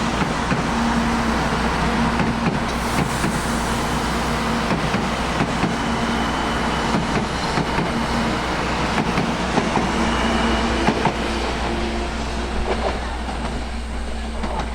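A train running past: a loud, steady rushing rumble that eases slightly near the end.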